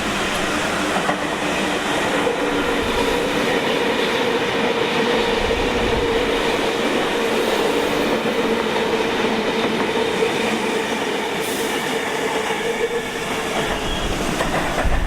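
Sydney double-deck electric train running through the station, wheels rumbling on the rails with a steady whine through most of the pass.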